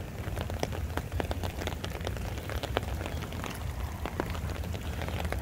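Rain falling, with many scattered sharp drop taps close to the microphone over a steady low rumble.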